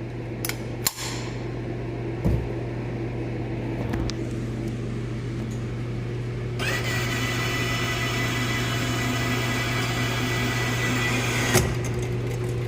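Electric motor whirring for about five seconds, starting with a short rising whine and then running steadily before stopping suddenly, most likely a shooting range's target carrier moving a target. Under it runs a steady low hum, with a few light clicks in the first four seconds.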